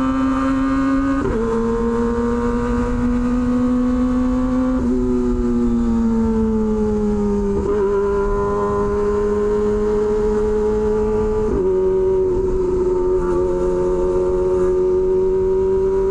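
Kawasaki Ninja ZX-25R inline-four with an SC Project aftermarket exhaust running at steady road speed. Its pitch drops abruptly about a second in and again near the end as gears are shifted up, and sinks gradually in the middle as the throttle eases off.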